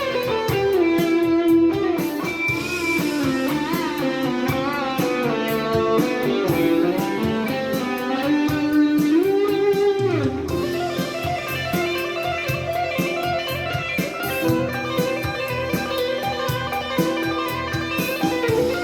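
Electric guitar, a Stratocaster with a Suhr DSH pickup, played through a Yamaha THR10 II amp: a lead line with string bends over a backing track with a steady beat.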